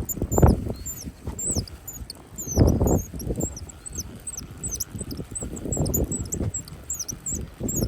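Wind gusts buffeting the microphone in irregular low rushes, the strongest about half a second in and near the three-second mark, over a constant stream of quick, high chirps.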